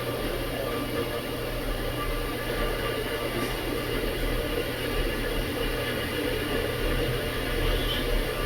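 Tea kettle heating water, with a steady rushing hiss and a low hum.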